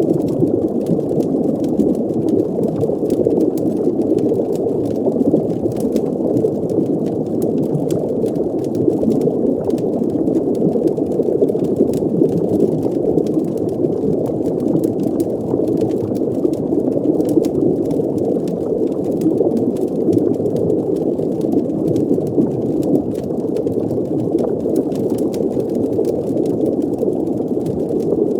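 Steady muffled underwater ambience: a dense, low bubbling wash of water, with faint scattered crackles like a fire's embers over it.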